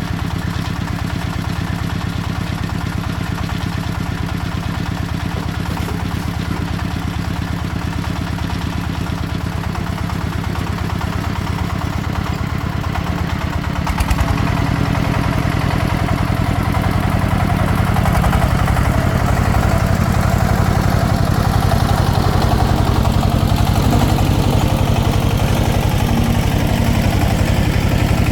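Single-cylinder diesel engine of a công nông farm vehicle running with an even knock of firing pulses, getting louder and picking up about halfway through.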